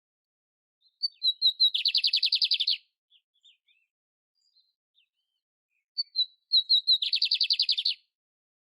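Canário império, a canary, singing: two song phrases about five seconds apart, one near the start and one after about six seconds. Each opens with a few quick clear notes and runs into a fast trill of about ten notes a second lasting about a second.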